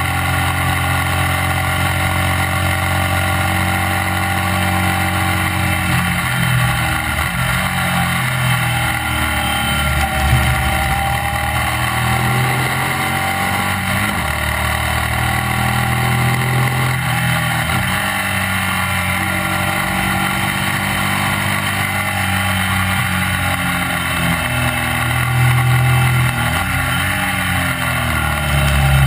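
Classic racing sidecar outfit's motorcycle engine running hard at high revs on track, heard from onboard over steady wind rush. Its pitch dips and climbs again several times as the outfit slows for corners and accelerates away, rising near the end.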